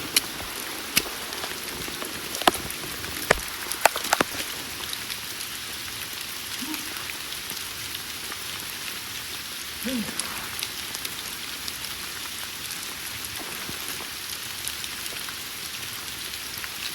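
Rain falling steadily in the forest, a continuous even hiss of drops on leaves and ground, with a few sharp taps close by in the first few seconds.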